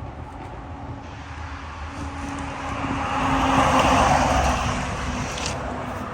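A road vehicle passing by: engine and tyre noise swell to a peak about four seconds in, then fade.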